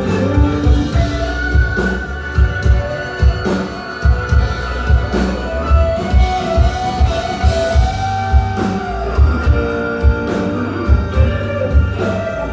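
Rock band playing live in an instrumental passage between verses: a sustained, gliding melody line over steady drum hits and bass.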